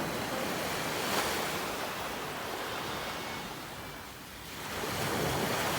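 Sea surf washing onto a beach: a steady rush of waves that eases about four seconds in and swells again near the end.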